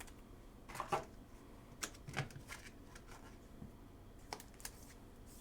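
Trading cards being handled: faint scattered clicks and rustles as cards are slid and flicked through a stack.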